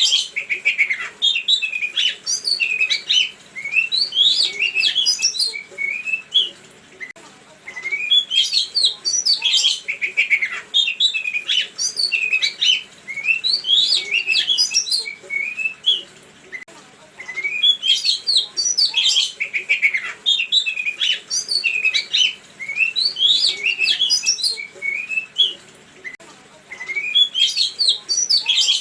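A songbird singing a fast, varied song of chirps and whistle notes in long bouts, broken by short pauses about every nine seconds; a birdsong lure ('pancingan') recording for provoking cage songbirds to answer.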